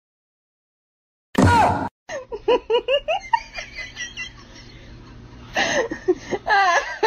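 About a second of silence, then a short loud sound falling in pitch, followed by a person laughing in quick bursts that die down in the middle and pick up again near the end.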